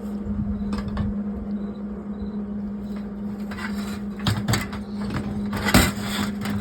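Short bursts of arc welding, plug-welding holes shut in auto body metal, over a steady low hum. The longest and loudest burst, about half a second, comes near the end and makes a hot weld that holds.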